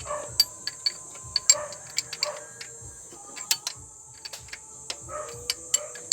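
Irregular metallic clicks and knocks of hand tools working on the power steering pump's mounting and adjuster, loosening it to slacken the belt.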